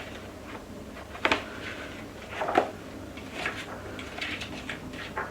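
Pages of a hardback cookbook being flipped by hand: a series of short paper flicks and rustles, several a second or so apart.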